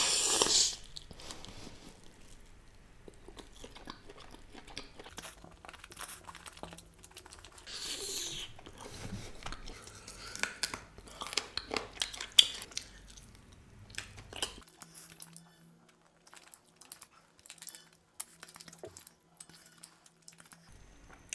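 Close-miked eating of roasted barbecue chicken wings by hand: a loud bite into a wing at the start, then chewing, crunching and gnawing at the bones. It grows much quieter for the last several seconds, with only a few faint clicks.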